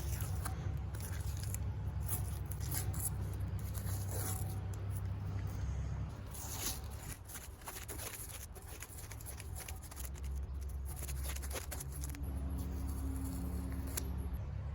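Scattered scraping and clicking handling sounds over a steady low hum; the hum eases off about midway and comes back a few seconds later.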